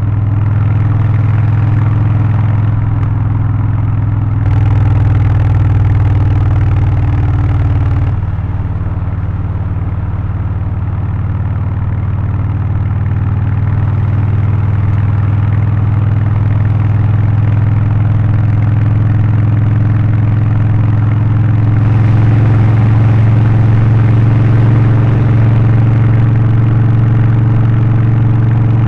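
Harley-Davidson Low Rider ST's V-twin engine, Stage 1 tuned with an aftermarket exhaust, intake filter and remap, running steadily with a deep low note. It gets louder about four seconds in, eases off a few seconds later, and builds again near the end as the throttle changes.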